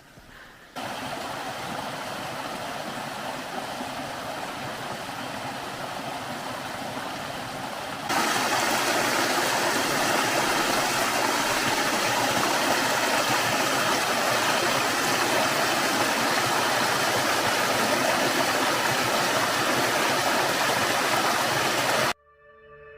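Steady rushing of water from a forest stream or small waterfall. It steps up sharply in loudness about eight seconds in and cuts off abruptly near the end.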